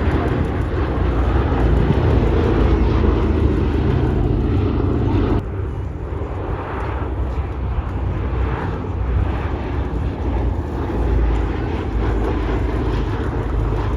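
Piston-engined warbirds flying past, a B-17 bomber with P-47D Thunderbolt and P-51D Mustang fighters, a loud, dense engine drone. The sound drops abruptly about five seconds in and carries on more quietly.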